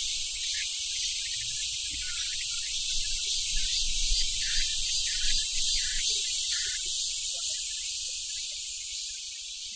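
Korean robust cicada (Hyalessa fuscata) singing: a loud, steady, dense high-pitched buzz that slowly grows fainter over the last few seconds.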